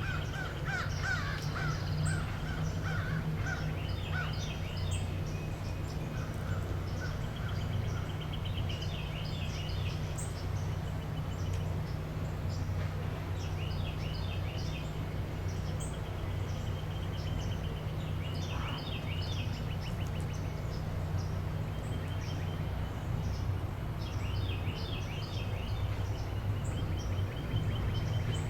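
Assorted wild bird calls: short chirps and repeated pulsed, trilling calls, some harsh and crow-like, over a steady low hum.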